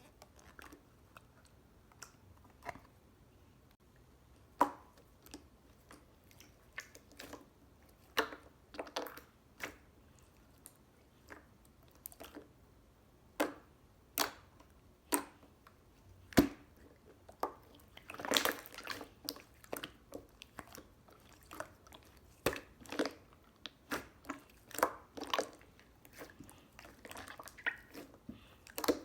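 Gold pearl slime being squished and pressed, making short, irregular clicks and pops.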